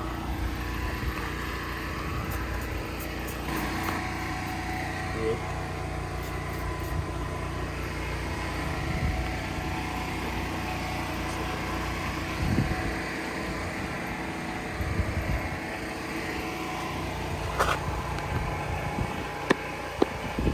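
Steady drone of a running engine or motor, with a few short clicks and knocks.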